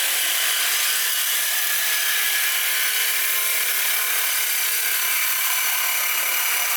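A power tool working on metal exhaust pipe, running with a steady, even hiss.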